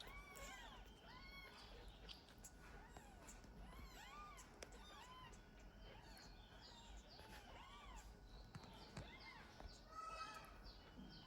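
Faint, repeated high mewing from kittens, several short rising-and-falling mews a second overlapping one another, as from more than one kitten.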